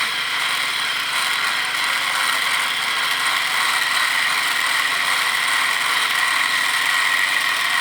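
A machine running steadily at constant speed, a continuous mechanical noise with a few steady high tones and no breaks.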